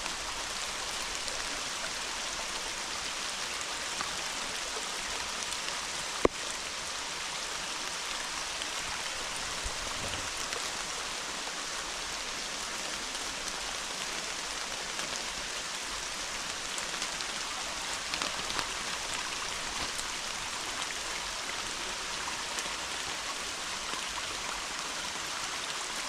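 Steady hard rain falling through woodland, an even hiss with no let-up, with one sharp click about six seconds in.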